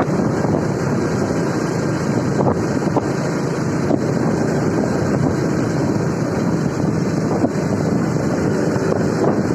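Steady wind rushing over the microphone of a moving motorcycle, with a continuous road-and-engine rumble underneath.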